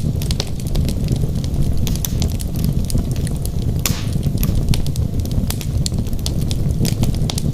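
Wood logs burning in a fireplace: a steady low rush of flame with frequent, irregular sharp crackles and pops, and a brief hissing pop about four seconds in.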